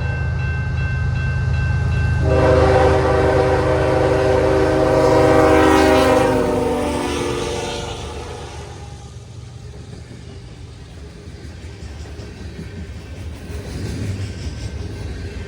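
Lead KCS ES44AC diesel locomotive sounding its air horn in one long chord of about five seconds, the pitch dropping near the end as it passes, over the low rumble of its diesel engine. After the horn the rumble of the passing train carries on more quietly.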